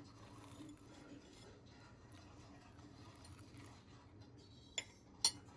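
Two short sharp clicks, the second louder, about half a second apart near the end, over a faint low hum.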